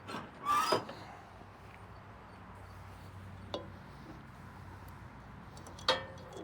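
Mower cutting deck of a John Deere Z587L zero-turn being lowered: a short creaking scrape about half a second in, a light click in the middle, and a sharp, ringing metal clank near the end.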